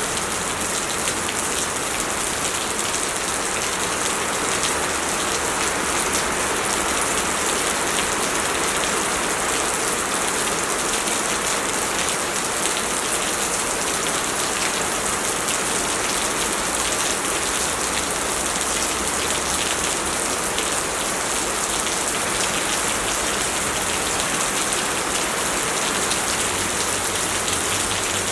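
Heavy rain pouring down steadily, a dense hiss of drops hitting the ground and surfaces.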